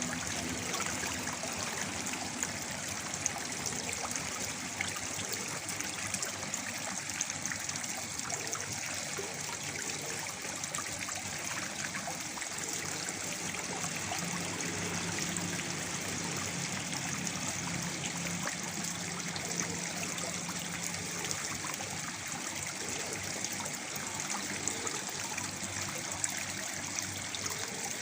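Waterfall: a steady rush of falling water with small splashes.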